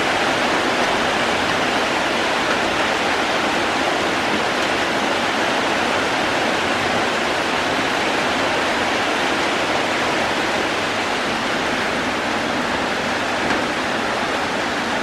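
Steady rain: a dense, even hiss of falling water that holds constant throughout.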